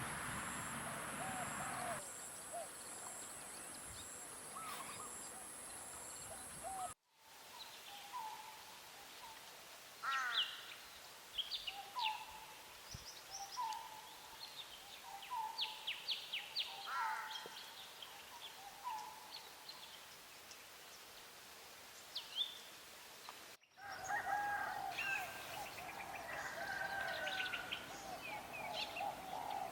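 Wild birds singing and calling, in three recordings joined by two sudden cuts. First, scattered low calls over a noisy background; then a songbird repeating a short note about every second and a half, mixed with higher rising and falling whistles; then a busy chorus of several birds calling at once.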